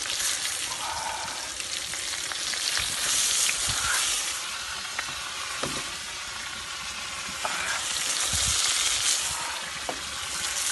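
Beef, onion and potatoes frying in oil in a kazan, a steady sizzle that swells twice, with a few sharp pops and ticks.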